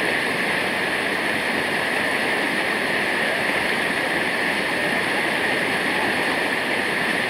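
Rushing water of a waterfall or stream: a loud, steady hiss with no breaks.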